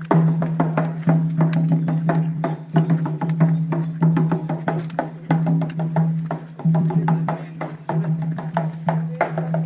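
Ceremonial music: quick, dense wooden percussion strikes and rattling clicks over a steady low droning tone that breaks off briefly a few times.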